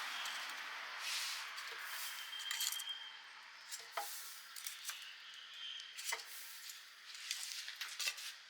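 Food-preparation handling sounds: irregular sharp clicks and knocks of utensils and food being handled, over a soft hiss that fades after the first second.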